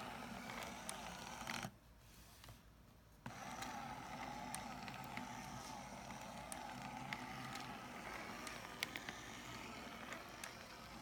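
Small DC electric motor driving the plastic gears, crankshaft and valve train of a 3D-printed engine model: a faint, steady whir with scattered light ticks. It drops away for about a second and a half, about two seconds in.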